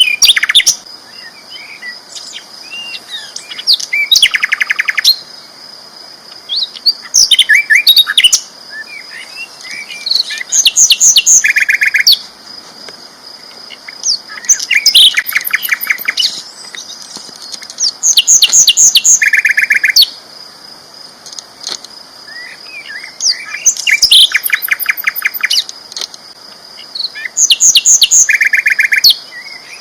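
A caged sikatan londo flycatcher singing loudly and continuously. It delivers a full phrase about every three to four seconds, each a fast run of sharp, high chipping notes ending in a lower buzzy trill, with softer twitters between the phrases.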